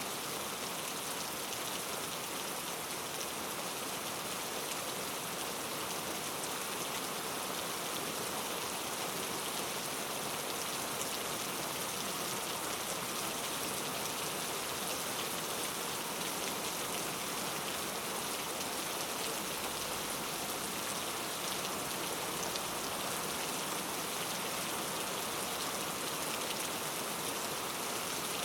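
Steady rain falling in a forest, a dense, even patter of drops on leaves and other surfaces.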